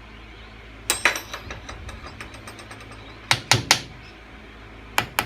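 Metal parts of a metal lathe clanking and rattling as they are handled during disassembly. There is a cluster of knocks about a second in, three sharper knocks around three and a half seconds in, and two more near the end.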